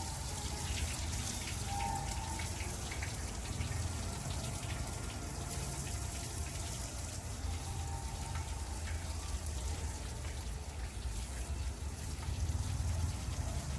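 Chopped onions sizzling steadily as they go into hot ghee in a brass pot, with a low rumble of wind on the microphone underneath.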